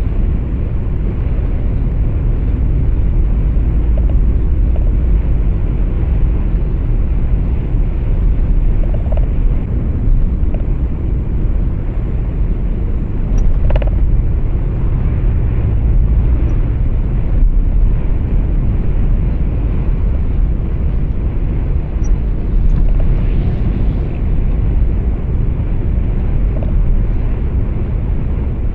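Steady low rumble of a truck's engine and road noise inside the cab, with a brief click about halfway through.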